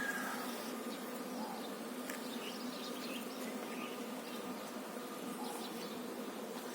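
Honeybees buzzing in a steady, even hum.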